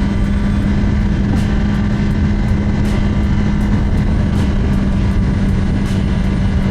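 2024 Kawasaki ZX10R's inline-four engine running at steady revs while riding, a constant engine tone with a loud rush of noise underneath it.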